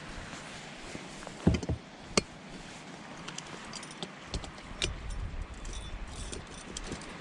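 A few short, sharp knocks and clinks over a steady background hiss.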